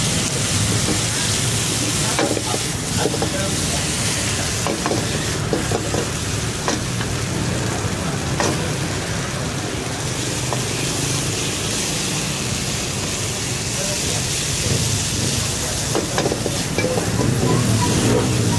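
Chicken sizzling and crackling in hot pork fat, with a steady frying hiss and a few clicks of utensils against the pan.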